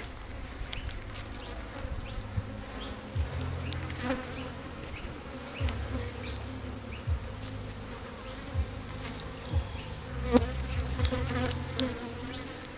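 Honeybees buzzing in large numbers around an open hive, a steady low hum, with a few light knocks and clicks scattered through it.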